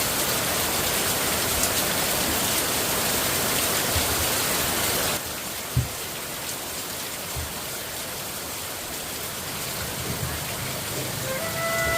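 Rain falling steadily, then abruptly softer about five seconds in, with a single dull knock shortly after. A flute tune begins near the end.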